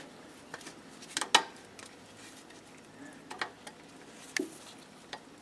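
A handful of light metallic clinks and knocks, the sharpest a little over a second in, from hands working the drive belt back onto the engine's pulleys.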